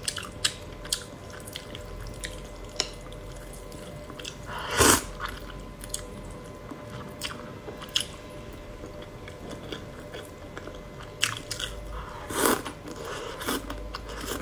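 Close-up eating sounds: biting and chewing a mouthful of cold noodles and boiled egg, with many short wet clicks and two louder bursts, one about five seconds in and one about twelve seconds in.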